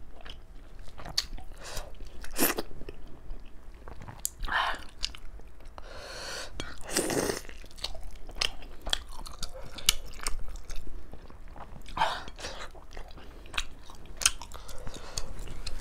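A person chewing mouthfuls of steamed chicken momo close to a clip-on microphone, with many sharp wet mouth clicks throughout. A longer breathy noise comes about six to seven seconds in.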